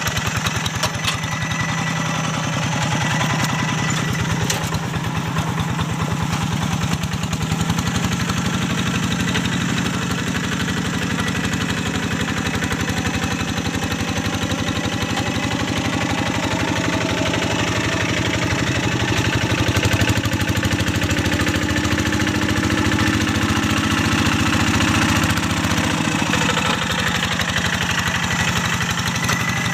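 Single-cylinder diesel engine of a Quick G1000 Boxer two-wheel hand tractor running steadily as it works; its note rises about a quarter of the way in, holds, and drops back near the end.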